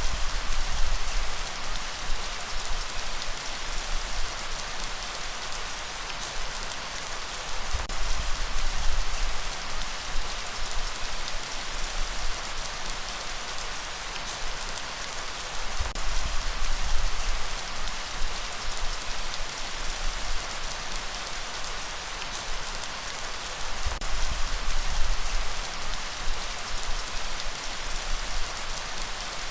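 Steady rain falling, an even hiss of drops with faint patters. A low rumble swells up about every eight seconds.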